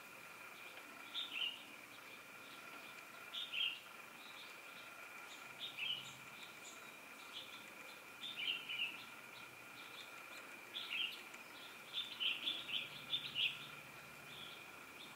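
Birds chirping outdoors in short calls every second or two, with a quicker run of chirps near the end, over a faint steady whine.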